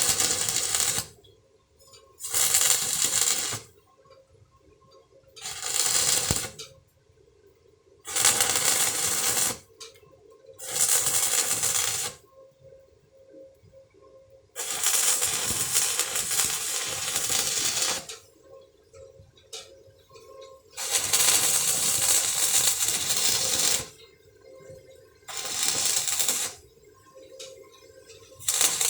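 Electric welding arc crackling in a series of short runs or tacks: about nine bursts of one to three seconds each, with pauses between them, the longest near the middle.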